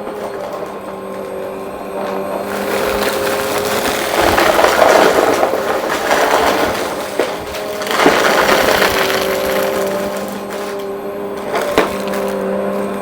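Vacuum cleaner running with a steady motor whine while it sucks up crunchy debris: loud crackling and rattling for several seconds, with a few sharp clicks, then easing back to the motor alone near the end.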